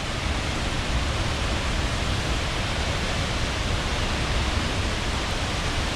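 Ozone Falls, a 110 ft waterfall in full heavy flow, making a loud, steady rushing roar.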